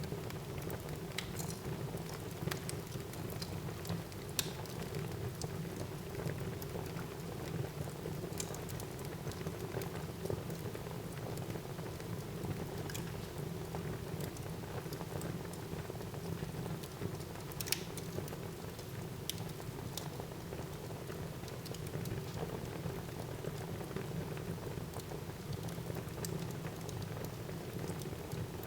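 Wood fire burning in a fireplace: a steady low rumble of flames with scattered crackles and pops, one sharper pop a little past halfway.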